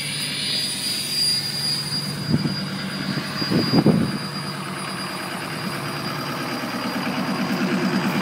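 Ford 6.0L Powerstroke V8 turbodiesel running on cold high idle, with a steady high turbo whistle over the diesel rumble. There are two brief louder sounds about two and a half and four seconds in, and a rhythmic pulse builds in the engine note near the end.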